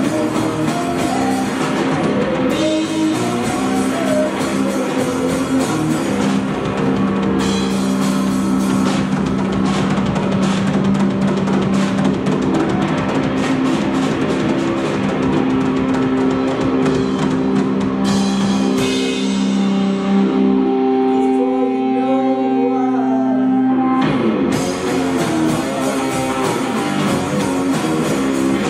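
Live rock band playing: a drum kit and electric guitar with sustained chords. About 20 seconds in the drums drop out for a few seconds, leaving the guitar alone, and then the full band comes back in.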